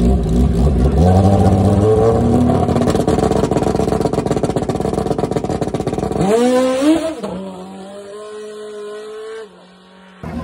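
Drag-racing sportbike engine revving up and held at high revs on the start line, then launching: the pitch climbs sharply in quick rising sweeps and the sound fades as the bike pulls away down the strip. It cuts off abruptly near the end.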